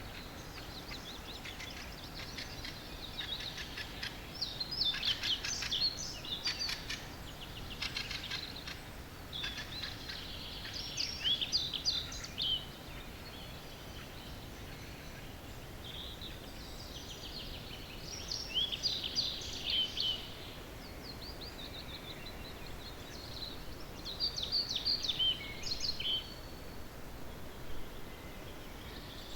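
Several songbirds singing in an early-morning dawn chorus: bursts of quick chirps and trills every second or two, with short lulls, over a steady low background noise.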